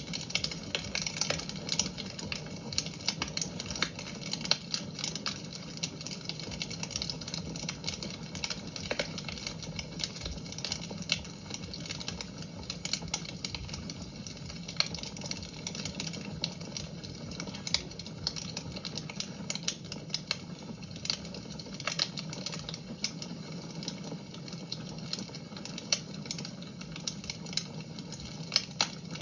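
Fire in a fireplace crackling: many irregular sharp pops and snaps over a steady hiss and low rumble of the flames.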